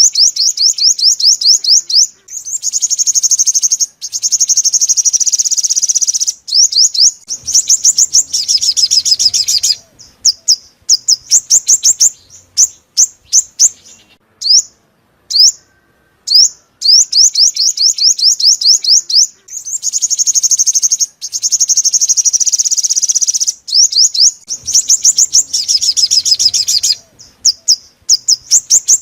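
Sunbird song of the kind Vietnamese bird-keepers call the five-coloured sunbird: rapid, high-pitched trills of sweeping notes alternating with short runs of single chips. The same run of phrases repeats about every 14 seconds, as in a looped lure recording.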